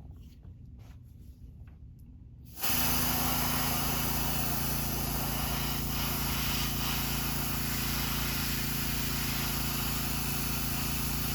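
Airbrush spraying paint: a steady hiss of air and paint starts abruptly about two and a half seconds in and holds, over a low hum. Before it there is only the low hum and a few faint clicks.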